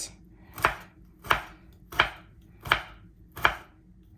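Knife chopping turmeric root into small pieces: five sharp, evenly spaced strikes, a little under a second apart.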